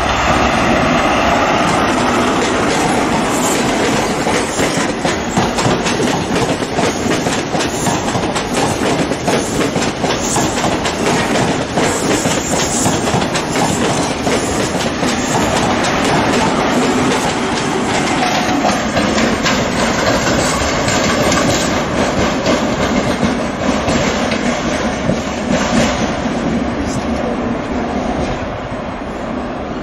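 Class 43 HST test train pulling out, its diesel power car running under load while the wheels clack steadily over the rail joints and pointwork, with a little wheel squeal. It fades slightly near the end.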